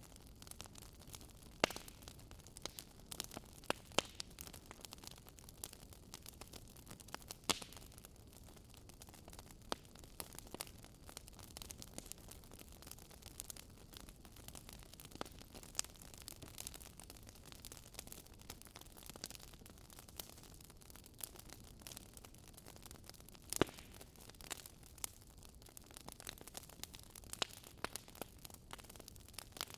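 Wood fire crackling, with irregular small pops and snaps, the sharpest about 1.5, 4, 7.5 and 23.5 seconds in, over a faint steady hiss.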